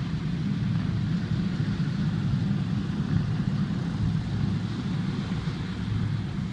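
WWII piston-engine warbird's engines running with a steady low rumble.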